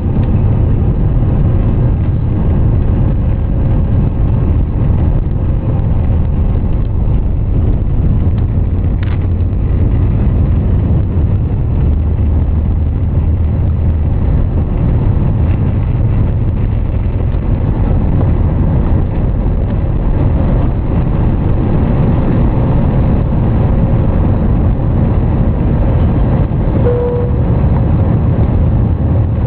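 Airbus A320 cabin noise during takeoff: a loud, steady, deep rumble of jet engines and airflow, heard from inside the cabin.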